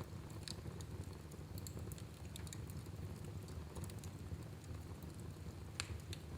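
Wood fire burning in a fireplace: a steady low rumble of the flames with scattered small crackles and pops, the sharpest one near the end.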